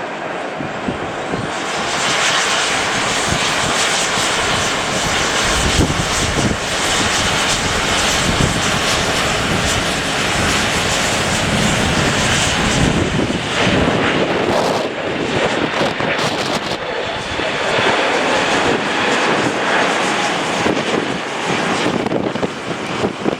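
Airliner's jet engines: a loud, dense roar that swells about two seconds in, holds, and eases off near the end, with gusts of wind buffeting the microphone.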